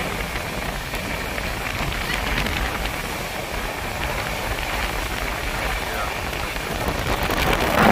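Running noise of a moving Indian passenger train heard from on board: a steady rushing of wheels on rails and wind over a low rumble.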